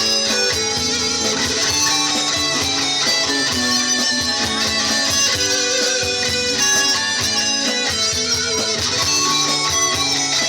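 Guitar-led rock music with no singing: electric guitar over strummed guitar and bass, with a steady beat.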